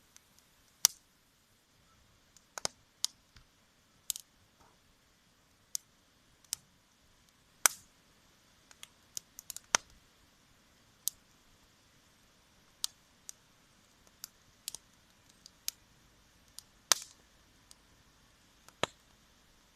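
Wood campfire crackling: sharp, irregular pops and snaps, one or two a second and of uneven strength, over a quiet background.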